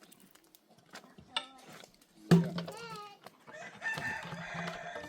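A rooster crowing: a sharp start a little over two seconds in, then a long drawn-out last note.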